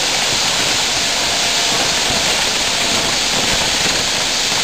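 Dense fireworks barrage in a grand finale: many overlapping bursts and crackles merge into a loud, steady hissing rush, with no single bang standing out.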